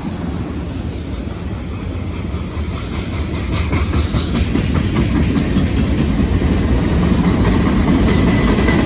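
Union Pacific mixed freight train's cars, including boxcars, rolling past: a steady rumble of steel wheels on rail with clickety-clack over the joints, getting louder about three and a half seconds in.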